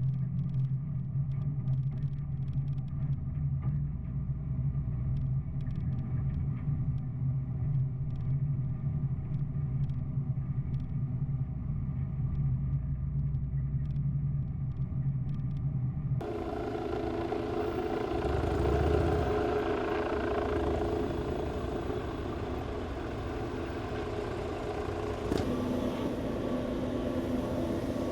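Engines or machinery running steadily, with no clear rhythm. The sound switches abruptly to a different, higher steady drone about 16 seconds in, and changes again about 25 seconds in.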